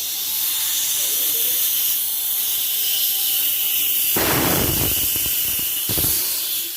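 Refrigerant gas hissing steadily out of a refrigerator's cut or opened line. The hiss is loud and high-pitched. About four seconds in it is joined by a low rumble, and there is another brief one near six seconds.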